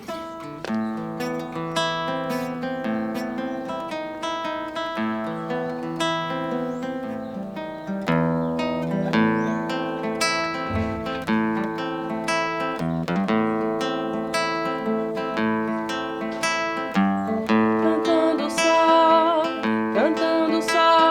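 Acoustic guitar playing a song's instrumental intro, plucked notes and chords in a steady rhythm. A singing voice comes in near the end.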